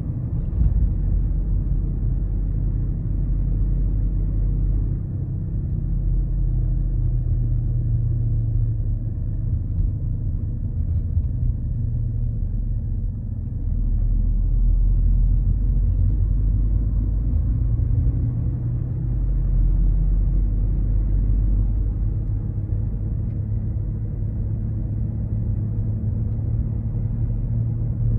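Low rumbling drone, a 'dorururu', from a 2010 VW Golf 6 1.4 TSI (single-turbo) under way, the abnormal noise it makes below about 1,400 rpm from the transmission or the front passenger-side wheel. It swells and eases as the car drives; the dealer suspects a worn front hub bearing or the transmission but cannot say which.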